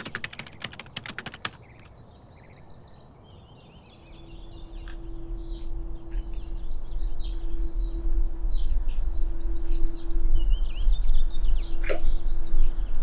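Rapid keyboard typing clicks for the first second and a half, then birds chirping and tweeting. From about four seconds a low steady hum with a held tone fades in and grows louder under the chirps.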